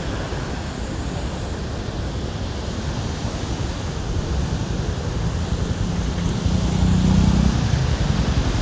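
Steady rushing noise of a flood-swollen river. In the second half an engine hum rises and grows louder.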